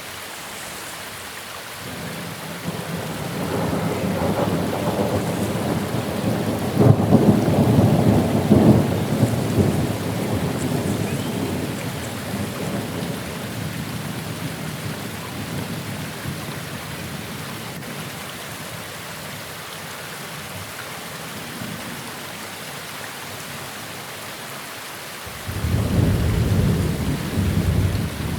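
Steady rain with thunder: a long roll of thunder builds a couple of seconds in, peaks and slowly rumbles away, and a second roll of thunder breaks in suddenly near the end.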